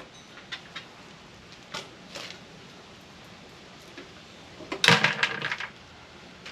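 Light clicks and taps of metal parts and tools being handled while a microwave is taken apart, with a brief burst of clattering about five seconds in.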